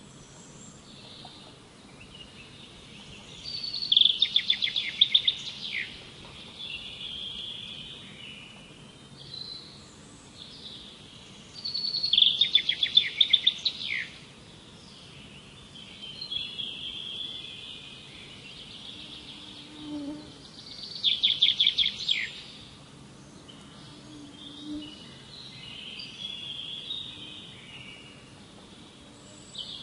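Songbirds singing: one bird repeats a loud, rapid trilled phrase three times, about eight seconds apart, with fainter calls of other birds between.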